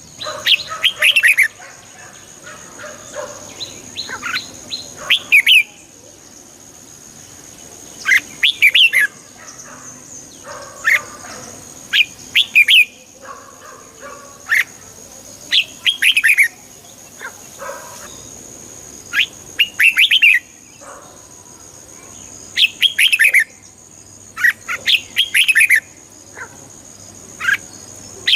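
Red-whiskered bulbul singing: short, quick warbled phrases repeated every one to three seconds, with pauses between them. A faint steady high-pitched whine runs underneath.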